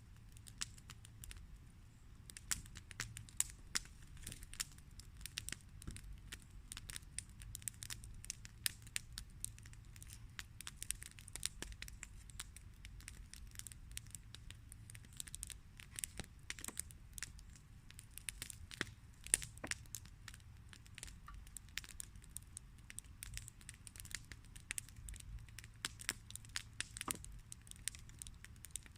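Wood campfire crackling, with many irregular sharp snaps and pops over a low rumble.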